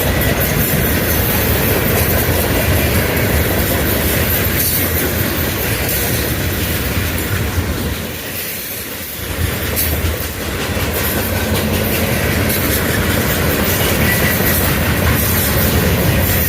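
Freight train cars rolling past close by, their wheels clicking steadily over the rail joints. The sound dips briefly about eight seconds in.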